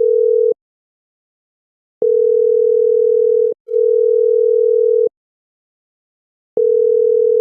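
An electronic bleep tone, one pure steady pitch with no overtones, switched on and off: it sounds briefly at the start, again from about two seconds in to about five seconds with a tiny break, and again near the end. Between the bleeps the soundtrack is dead silent.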